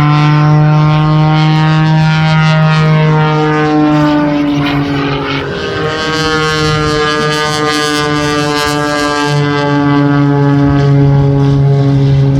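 Propeller-driven aerobatic airplane's piston engine running loud and continuous overhead. Its note slides down around the middle, then climbs again as the plane manoeuvres.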